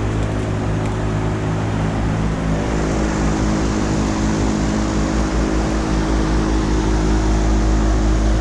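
AAON packaged air conditioner running under load: a steady compressor hum with several tones over the rush of its condenser fan, and a deep low rumble that grows louder near the end.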